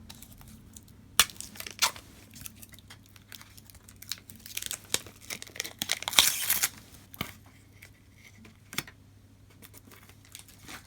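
Small parts and plastic film being handled on a workbench. There are a few sharp clicks and taps, and a stretch of crinkling, tearing-like plastic film noise that is loudest a little past halfway.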